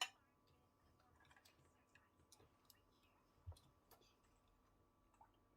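Near silence in a small room, broken by a sharp click at the start, a few faint ticks and a soft thump about three and a half seconds in.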